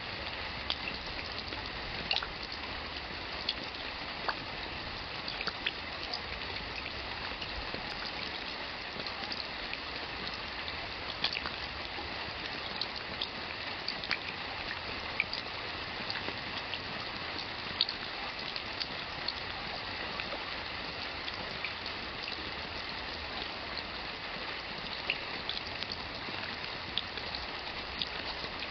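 Steady rain with individual drops pattering and splashing sharply at irregular moments.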